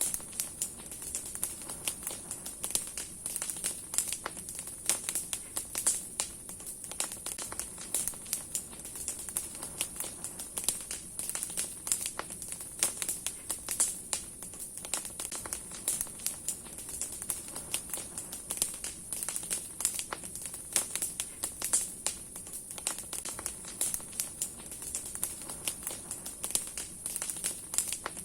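Large wood bonfire burning: branches and logs crackling with dense, irregular sharp pops over a steady high hiss.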